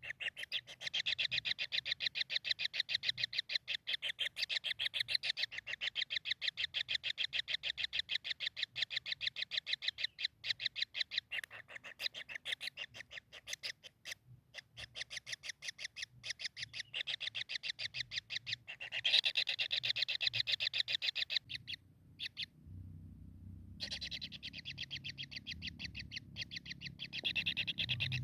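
Kingfisher calling a long, fast chatter of evenly repeated notes, breaking off for a couple of seconds about three-quarters of the way through before starting again. A low rumble comes in during that break and continues under the calls.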